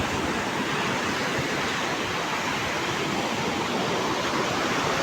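Surf of a rough sea: waves breaking in a steady rushing noise.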